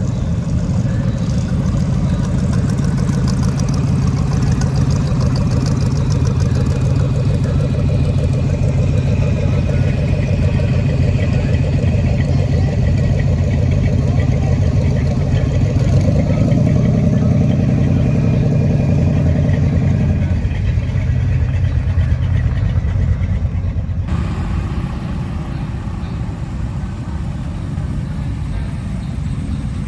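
Car engines running as vehicles roll slowly past, a steady low engine sound that swells for a few seconds past the middle and then eases off.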